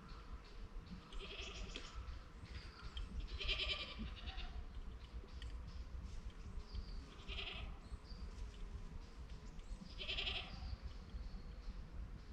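An animal call repeating about every three seconds, over a steady low rumble.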